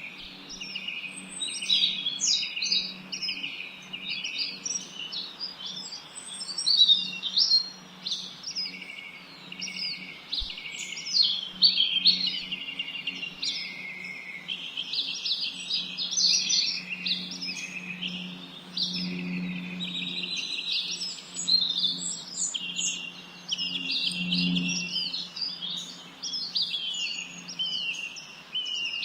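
Many small songbirds chirping and twittering at once, a dense chorus of short, overlapping high notes and trills. A steady low hum runs underneath.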